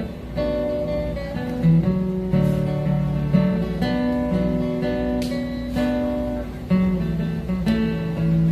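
Acoustic guitar strumming and picking chords of a song, without singing.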